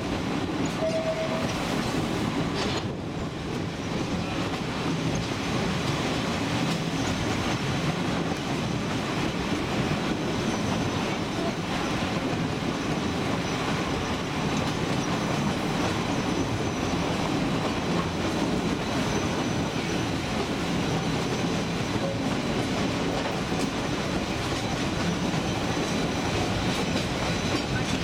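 Narrow-gauge train running along the track, heard from aboard: a steady noise of wheels and cars on the rails.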